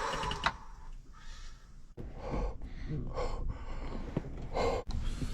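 A man breathing out heavily several times in short puffs, blowing from the heat.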